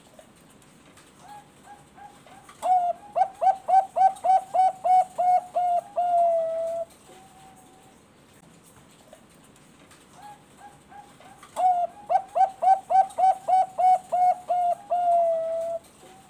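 Zebra dove (Bangkok-strain perkutut) singing two full song phrases. Each phrase opens with a few soft notes, runs into about ten loud, quick notes at roughly three a second, and ends on one drawn-out note. The second phrase starts about nine seconds after the first.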